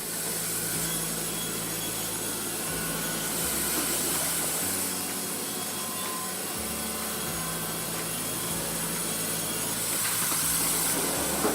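Baker Dominator 3650E sawmill cutting through wood: a steady sawing noise that runs on without a break.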